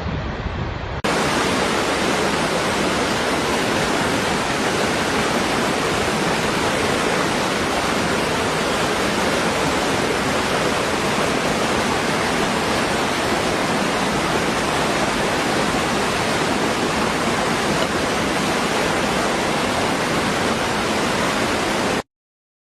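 Waterfall rushing, a dense, steady noise that starts suddenly about a second in, replacing a duller, lower rumble, and cuts off abruptly near the end.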